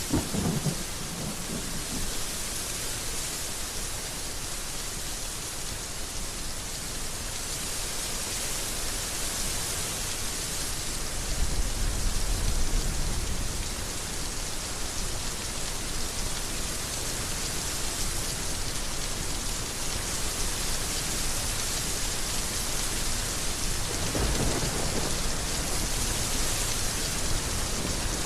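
Heavy rain falling steadily, with low rolls of thunder: a short one at the start, the loudest near the middle, and a smaller one near the end.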